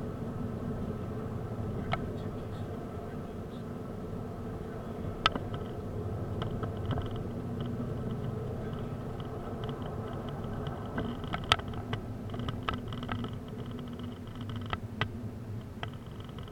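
A car driving, heard from inside the cabin: a steady engine and road rumble, with scattered sharp clicks and knocks, the loudest about five and eleven seconds in.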